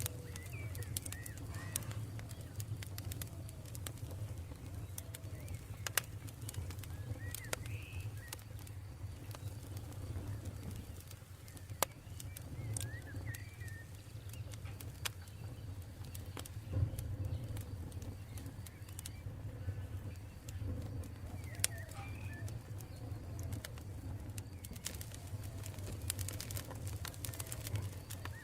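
Campfire burning with a steady low rumble and scattered sharp crackles and pops, while birds call now and then in the background.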